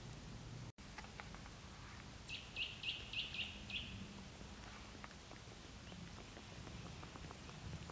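A small bird giving a quick run of about six short, high chirps, starting a little over two seconds in, over a soft forest background with scattered faint ticks.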